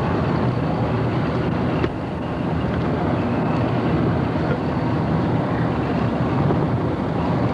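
A 1973 Ford Thunderbird's 460 V8 running steadily on a test drive, with a constant low engine drone and road noise.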